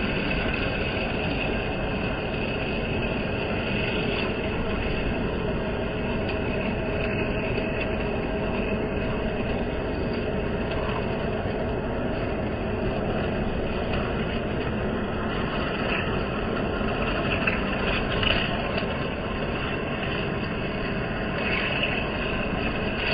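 Metal lathe running steadily while machining a steel shaft, a constant mechanical hum and noise, with a few brief louder moments in the last few seconds.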